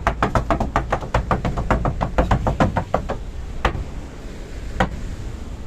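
Fast hand clapping, about six claps a second, that slows after about three seconds to a few single claps, over a low wind rumble on the microphone.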